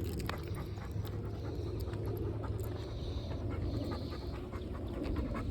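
Dog panting on a walk, in repeated breaths, with scattered light clicks.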